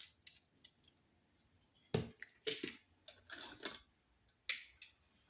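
Screwdriver backing out the terminal screws on a wall receptacle: a sharp metallic click about two seconds in, a few short scratchy scrapes, and another click near the end.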